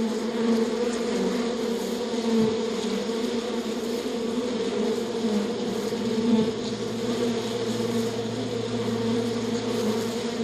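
Flying insects buzzing in a steady, continuous drone.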